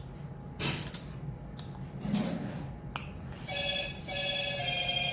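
A phone ringtone: an electronic tune of short, stepped beeping notes starts about three and a half seconds in, after a few light clicks and clinks.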